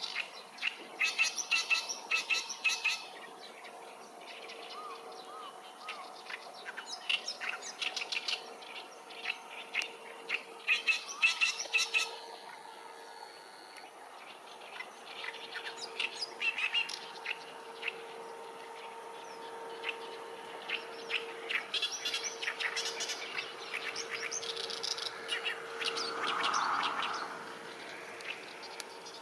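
Small birds chirping and singing in repeated bursts of quick, high notes, over a faint steady hum.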